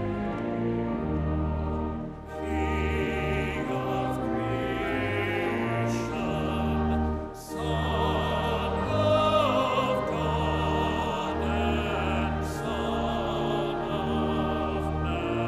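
Choir singing a slow hymn with instrumental accompaniment, held notes over a stepping bass line, in phrases broken by two short breaks. A voice with vibrato stands out from about halfway through.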